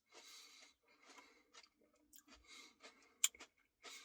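Faint chewing and mouth noises of someone eating a Blizzard ice cream, in short bursts, with a sharp click about three seconds in.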